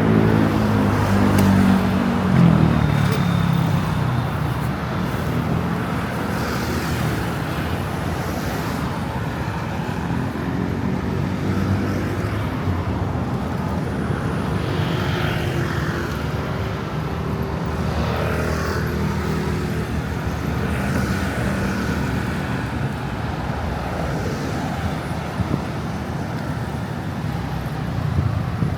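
Street traffic noise, with a vehicle engine running close by and loudest in the first few seconds, easing into a steady background of road traffic.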